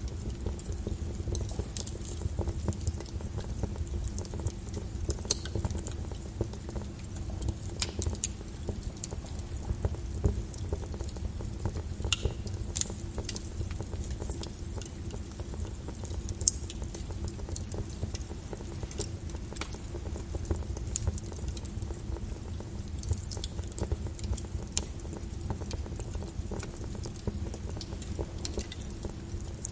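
Wood fire burning in a fireplace, with a steady low rumble and frequent sharp crackles and pops at irregular moments.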